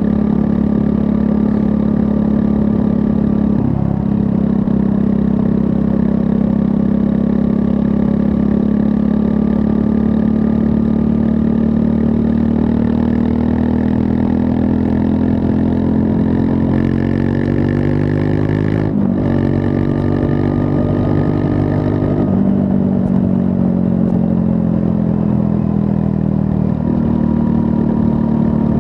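Triumph Scrambler 400 X's single-cylinder engine running under way. The engine note rises under acceleration, drops sharply with a gear change about two-thirds of the way in, then falls away as the throttle eases.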